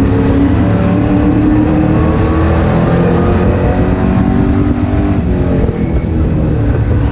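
Super stock race car engine running hard at racing speed, its pitch rising and falling gently as the car goes around the track.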